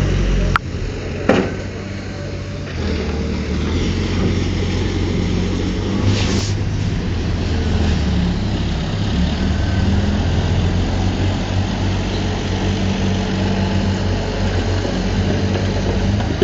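Heavy diesel earthmoving machinery running steadily, with two sharp knocks early on and a short hiss about six seconds in.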